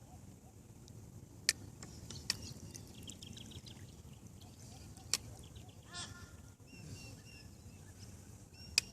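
Faint bird chirps repeating, with a short rasping bird call about six seconds in and four sharp clicks spread through.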